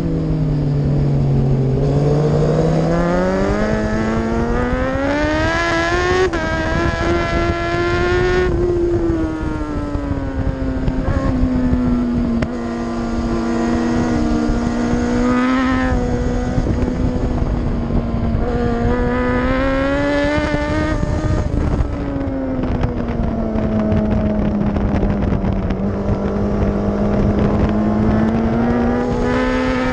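Superbike race motorcycle engine under hard racing use, its revs climbing on acceleration and falling back on the brakes into corners, over a constant rush of wind noise.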